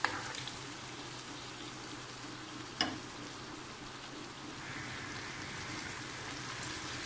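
Boiled beef pieces going into a hot pan of fried tomato-ginger masala and sizzling softly, with a single sharp knock about three seconds in. The sizzle grows a little louder in the last couple of seconds as the meat is stirred with a plastic spatula.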